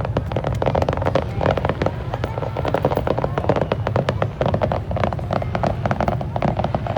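Fireworks going off in rapid succession: a dense run of pops and bangs over a steady low rumble.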